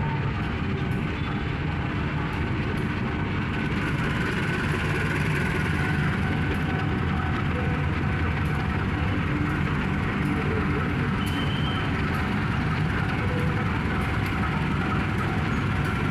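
Sawunggalih locomotive-hauled passenger train running on the rails: a steady, continuous rumble of locomotive and carriages that grows slightly louder about four seconds in.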